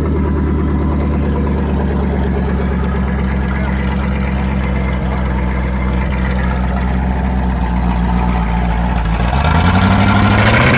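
Old 4x4 pickup truck's engine running steadily at low revs, then revving up near the end, its pitch rising.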